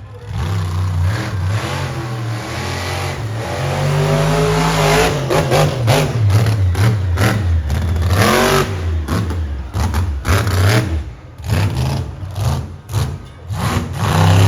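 Monster truck engine revving hard, the pitch climbing and falling over a few seconds, then blipped on and off in quick bursts through the second half.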